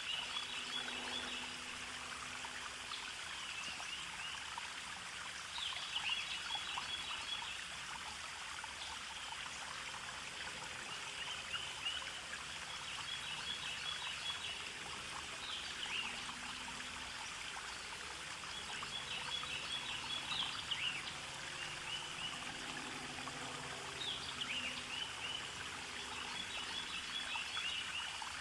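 A small stream trickling and babbling steadily, with a songbird repeating a short, high song phrase, a quick sweep and a trill, about every four to five seconds.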